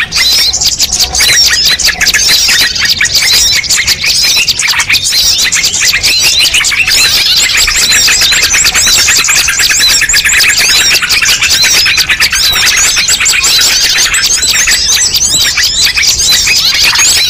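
Dense chorus of many small birds chirping and twittering over one another without a break, quick rapid notes sliding up and down: a bird-lure (pikat) recording made to draw in all kinds of birds.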